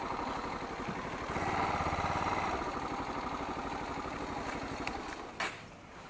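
Motorcycle engine idling with a steady fast low putter that swells briefly in the first half and fades near the end, with a short click just before it dies away.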